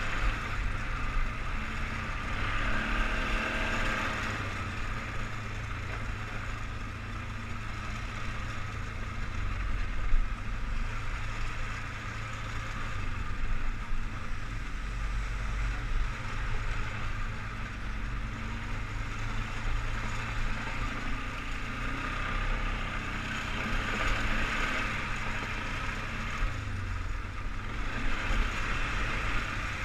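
Single-cylinder four-stroke engine of a Polaris Sportsman 500 HO 6x6 ATV running steadily, its level swelling and easing, with one brief thump about ten seconds in.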